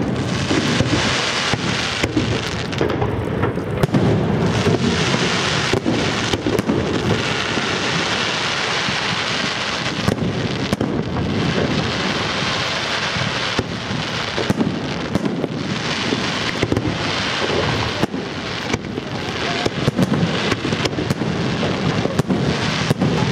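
Fireworks display going off: a dense, unbroken stream of crackling with frequent sharp bangs of shells bursting in quick succession.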